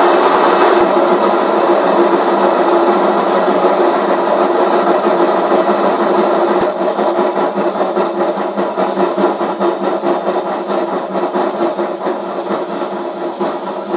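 Washing machine running its spin cycle: a steady, loud hum and whir of the spinning drum. About halfway through it becomes a little quieter and more uneven, with a rapid flutter.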